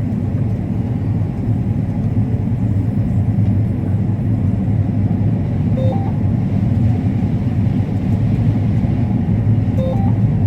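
Combine harvester running steadily through standing corn, a constant low rumble of engine and threshing machinery. A short two-note electronic tone sounds twice, about six and ten seconds in.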